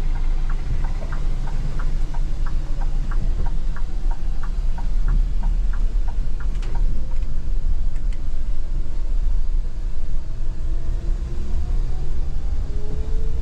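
Scania Metrolink multi-axle coach running with a steady low engine rumble while its turn indicator ticks about two to three times a second as the bus turns left; the ticking stops about six and a half seconds in. Near the end a faint whine rises in pitch as the bus picks up speed.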